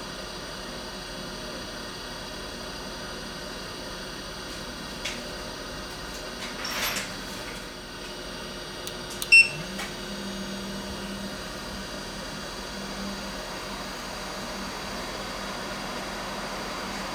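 JBC hot air rework station giving one short electronic beep, then its fan starting with a low hum that rises briefly in pitch and holds steady over a constant hiss. A couple of faint clicks and a short rustle come before the beep.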